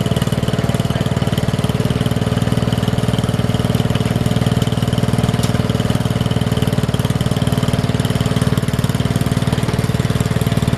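Small garden tractor engine running steadily at a constant speed, with an even low pulse and no change in pitch.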